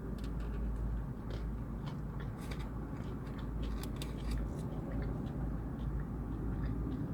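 Close-up eating of chicken wings: scattered small crunches and wet clicks of biting and chewing, over a steady low hum.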